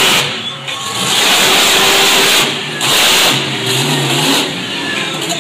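Monster truck engines revving loudly, rising and falling in several surges.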